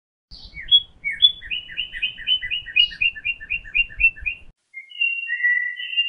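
A songbird singing a rapid run of sharp chirps, about five a second, for about four seconds. Near the end it changes to long, steady whistled notes.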